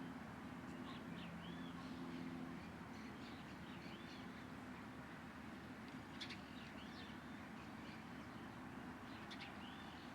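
Small birds chirping, repeated short arched chirps, with a few sharper high-pitched notes about six and nine seconds in, over a faint steady low hum.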